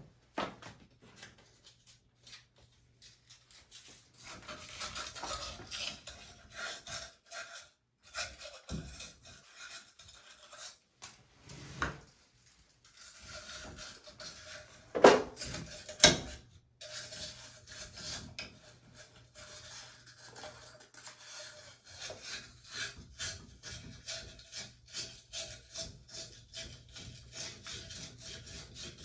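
Sandpaper rubbing crusted build-up off a mixer tap cartridge, in repeated quick scraping strokes. Two sharp knocks about halfway through.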